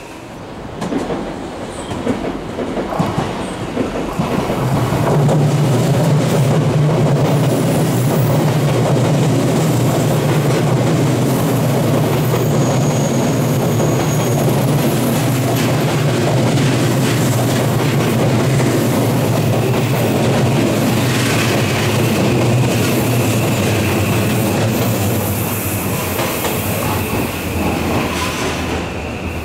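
Electric commuter train running past at speed: a steady rumble of wheels on rail with clacking over the rail joints. It builds over the first few seconds, holds for about twenty seconds, then fades, with a thin high wheel squeal near the end.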